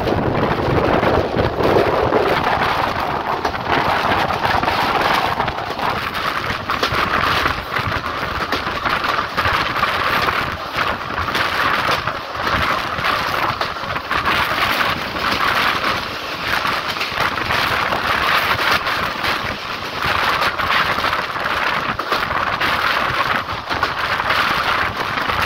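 Wind rushing and buffeting against a microphone held out of a fast-moving passenger train's coach window, over the steady rumble of the train's wheels on the track.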